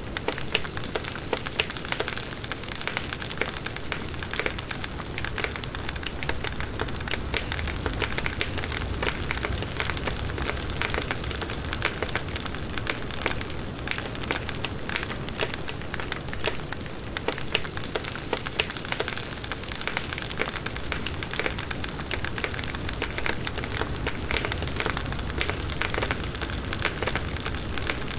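Firewood burning in a campfire, crackling with many quick, irregular snaps and pops over a steady hiss and low rumble of the flames.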